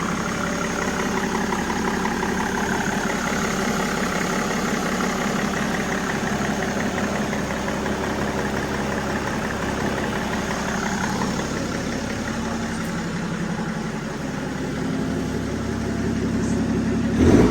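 BMW M57 straight-six diesel, newly installed in a Land Rover Defender, idling steadily just after its first start.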